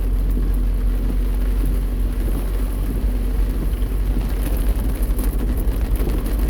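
Car driving on a rain-wet road, heard from inside the cabin: a steady low rumble of engine and tyres, with a faint hiss of water spray.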